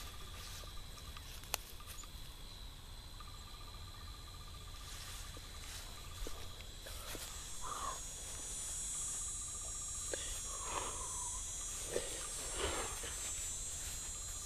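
Outdoor ambience of insects: a steady high-pitched drone, a higher hiss coming in about halfway, and a fast pulsing trill that starts and stops several times, each run lasting a second or two. A few soft puffs and clicks fall in the second half.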